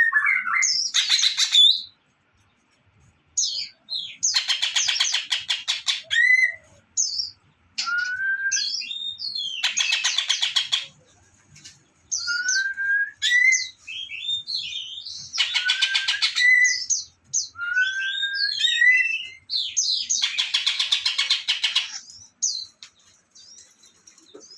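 A songbird singing in repeated phrases: a fast, dry rattling trill of about a second and a half, repeated several times, alternating with short rising whistles and high chirps.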